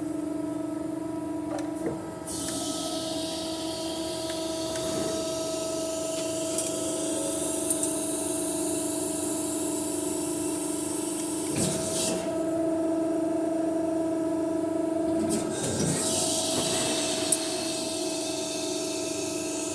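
CNC press brake running through its bending cycle: a steady motor hum, with a high hiss that comes in about two seconds in, cuts off with a click around twelve seconds and comes back near sixteen seconds, and a few sharp clicks as the stages change.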